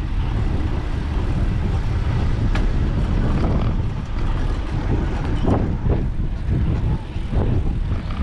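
Steady low rumble of wind buffeting the microphone of a moving bicycle.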